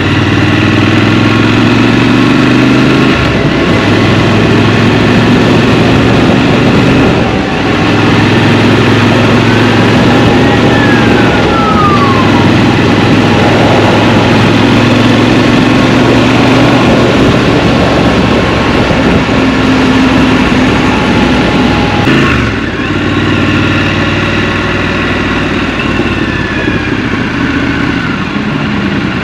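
Scrambler motorcycle engine running in city traffic, its pitch shifting with throttle and gear changes, easing off about three-quarters of the way through.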